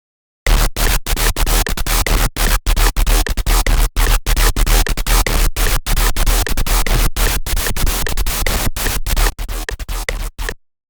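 Serum software synthesizer patch built on a wavetable made from an AI-generated image, playing a harsh, noisy, gritty tone over a deep sub-bass, chopped by many short irregular gaps. It drops in level near the end and then cuts off abruptly.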